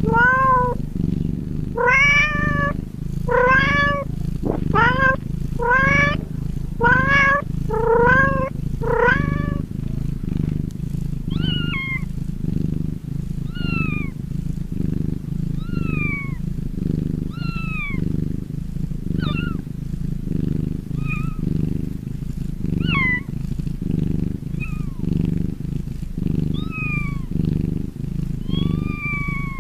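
Cat purring steadily under a string of meows: a quick run of short meows about one a second for the first ten seconds, then higher, falling meows every second or two.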